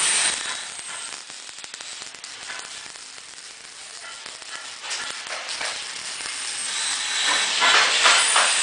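Electric arc welding: a crackling, sizzling arc that is loud at first, quieter through the middle, and loud again near the end.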